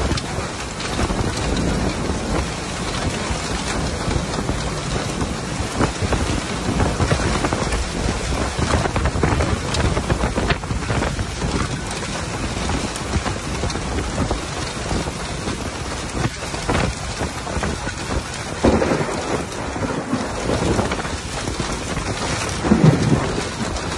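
Steady rain falling in a thunderstorm, with low rumbles of thunder swelling up twice near the end.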